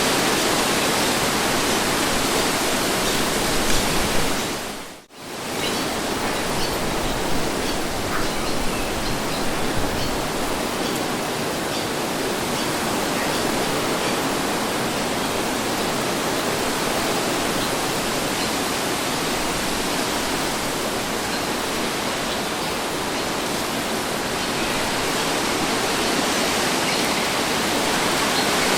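Steady wind noise, a breeze rushing without pause, with a brief sharp dip almost to silence about five seconds in.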